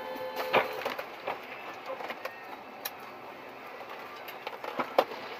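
Vehicle running noise with several sharp knocks or clicks; the two loudest come about half a second in and near the end.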